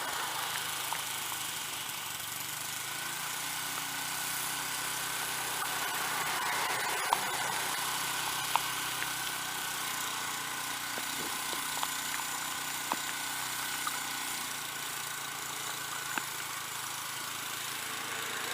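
Small snow blower engine idling steadily, its muffler bad by the owner's account, with a few sharp clicks standing out over the running.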